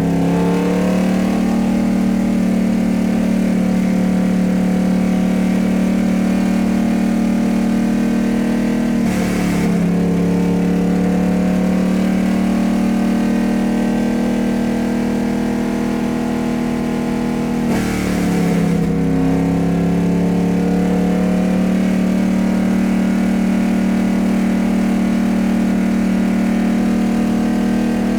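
Vehicle engine running steadily at an even speed. Its pitch dips briefly and settles back three times, at the start, about nine seconds in and about eighteen seconds in, with a short hiss at the second and third dips.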